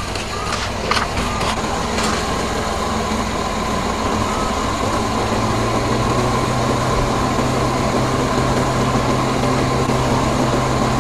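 Mercedes-Benz GLK idling with the air conditioning on, its engine cooling fan running steadily at normal speed rather than high, the sign that the over-speeding fan fault is now cured. A low hum joins about four or five seconds in.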